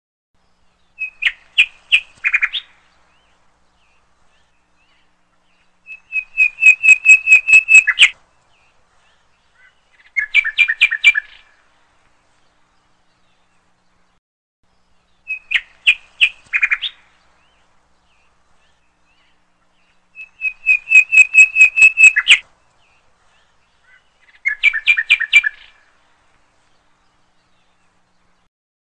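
Bird chirping in short bursts of rapid high trilled notes, each burst a second or two long with silence between. The same sequence of bursts repeats about every 14 seconds, as a looped birdsong track.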